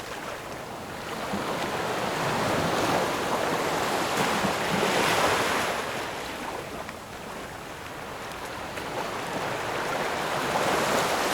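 Sea waves breaking and washing up a shore. The surf swells and eases, with one wave cresting around the middle and another building near the end.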